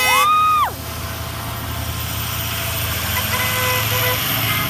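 A short high-pitched whoop that rises and falls in the first second, then a truck running past with a steady low rumble and road noise.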